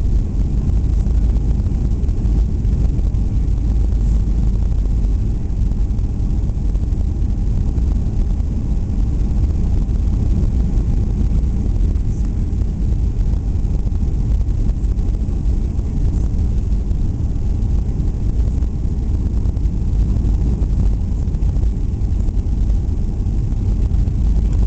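Steady, loud low rumble inside the cabin of a Boeing 737-800 airliner, with engine and airflow noise and a faint steady hum above it.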